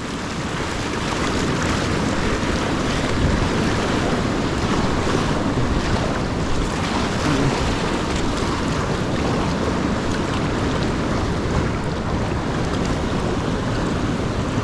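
Rushing whitewater of a river rapid: a steady, even rush of moving water that swells over the first couple of seconds.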